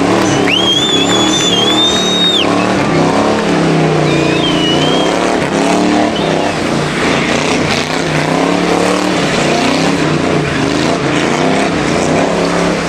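Old-school American V8 engine revving hard, rising and falling in pitch, during a rolling burnout. A high steady squeal starts about half a second in and holds for about two seconds, and a shorter squeal follows around four seconds in.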